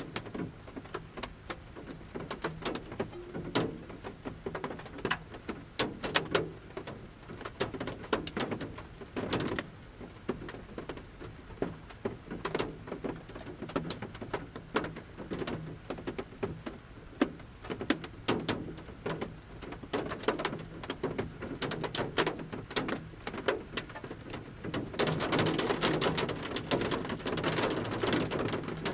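Large raindrops falling from the forest canopy onto a camper van's roof, heard from inside: irregular individual taps over a light rain patter. About three-quarters of the way in, the patter thickens into a denser shower for the last few seconds.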